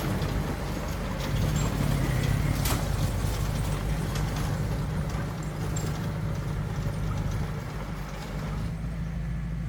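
Heavy diesel earthmoving machine running steadily, with a sharp metallic knock about two and a half seconds in.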